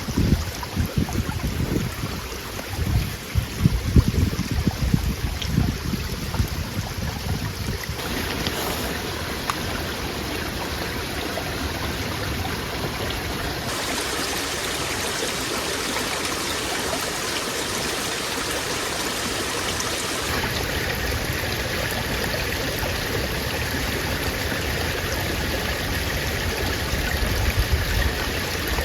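Steady outdoor rushing noise, with wind buffeting the microphone in low gusts for the first several seconds. The noise changes character abruptly a few times.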